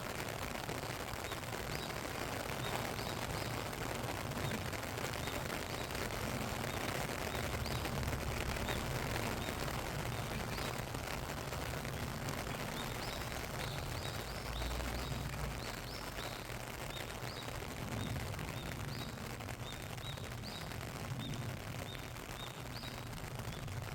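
Steady rain falling, a continuous even patter. From about halfway through, a bird chirps repeatedly with short, high notes over the rain.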